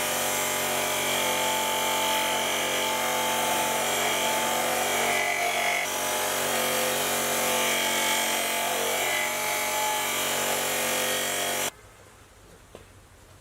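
Power tool running steadily under load, working on metal, then stopping abruptly near the end.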